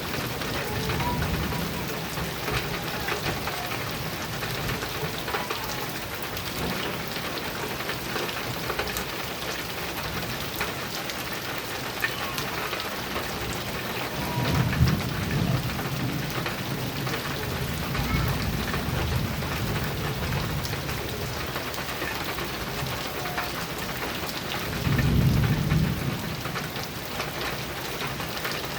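Heavy rain pattering steadily on a metal roof, with many sharp drop ticks. Low rolls of thunder rumble several times, the loudest about halfway through and again near the end.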